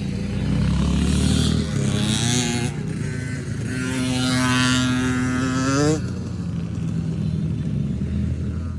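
Honda CRF110 pit bike's small four-stroke single-cylinder engine revving. The pitch swings up and down, climbs steadily for about two seconds, then drops suddenly back to a lower, steady run.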